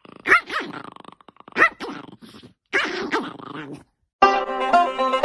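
A dog barking three times, about a second and a quarter apart. About four seconds in, banjo music starts.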